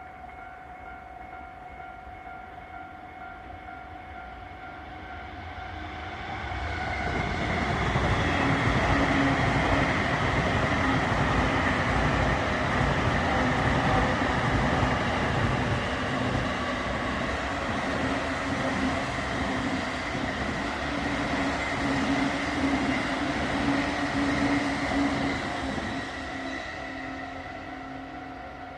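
A train passes over a level crossing: its noise builds about six seconds in, stays loud, and fades near the end. The crossing's warning bell keeps ringing throughout.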